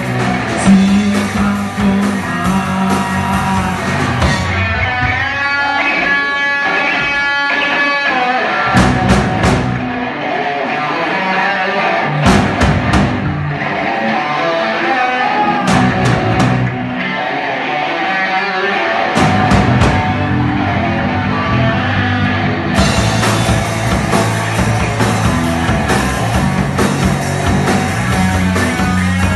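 Live band playing an instrumental passage, guitar over bass and drums. The band drops back to a sparser section with short drum-kit hits every three or four seconds, then comes back in full about three-quarters of the way through.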